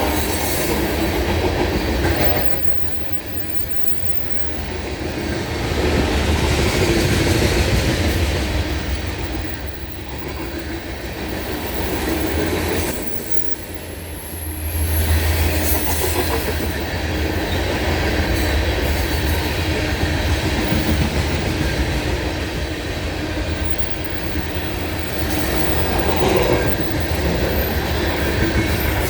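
BNSF coal unit train's cars rolling past at speed, steel wheels clattering and rumbling over the rail joints, the sound rising and falling as the cars go by.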